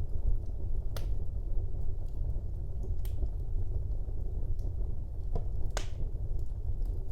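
Wood fire burning in a fireplace: a steady low rumble of the flames with sharp crackles and pops, the loudest about a second in, three seconds in and near six seconds in.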